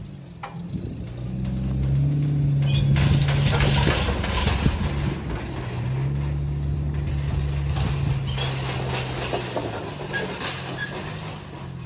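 A vehicle engine running and changing speed, its pitch shifting up and down, louder from about two seconds in and easing off toward the end.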